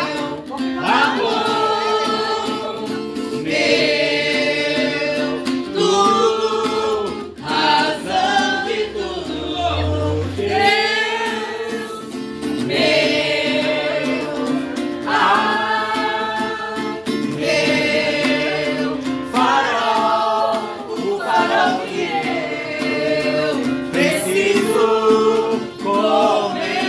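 Voices singing a Portuguese-language gospel worship song together, in long sung phrases over a steady instrumental accompaniment.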